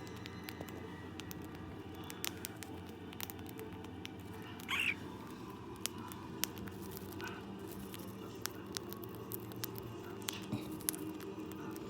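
Pet birds moving about: light, scattered clicks and taps from claws and beaks, with one short chirp about five seconds in, over a steady low room hum.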